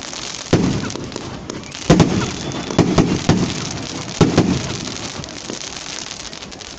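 Crackling and hiss of a 30-metre bonfire burning, with five sharp bangs, the loudest about two and four seconds in.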